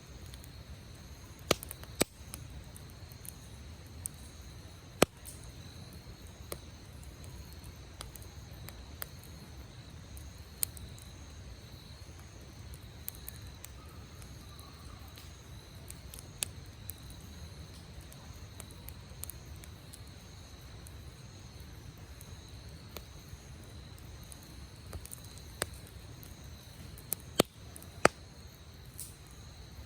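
Wood campfire crackling, with a soft low rumble of burning and sharp pops every few seconds, a cluster of louder ones near the end. A steady high insect trill runs underneath.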